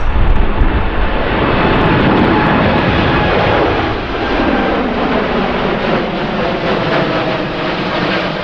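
Jet airliner's engines roaring as it passes. The roar peaks about two seconds in with a falling sweep, then eases, leaving a steady engine whine.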